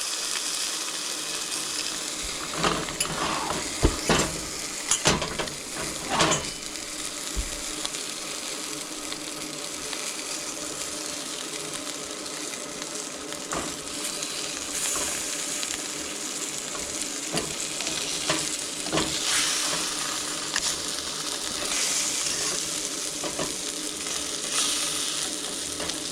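Fish frying in a pan, sizzling steadily, with louder bursts of sizzle later on. A few sharp knocks of a utensil against the pan come a few seconds in.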